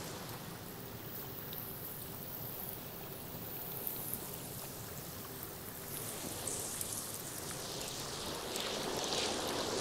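Rainwater runoff flowing down a small channel it has cut into the ground: a steady rush of running water, a little louder in the last few seconds.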